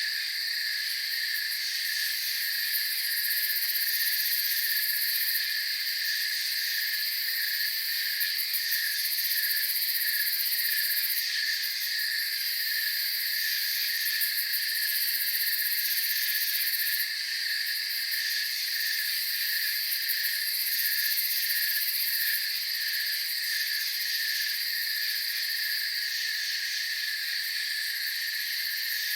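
A chorus of night crickets and other insects: steady high chirring in several layers, some dropping in and out every few seconds, over a lower call that pulses at an even beat.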